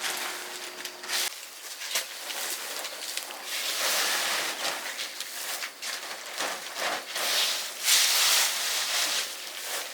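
Rustling and crackling of leaves and brush, swelling and fading unevenly, with scattered sharp snaps.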